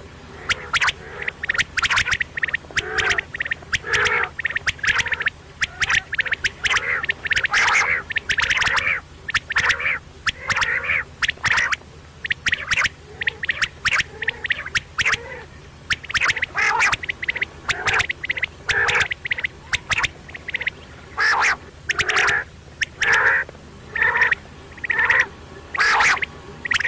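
Quail calling over and over: short, sharp calls in quick runs, settling into a more even rhythm of a call every half second or so near the end.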